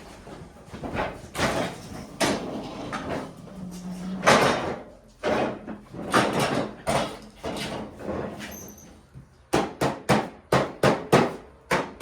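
Scraped-off wet grass clumps being dumped out: irregular scuffs and thumps, then a quick run of about eight sharp knocks near the end as the container is banged to empty it.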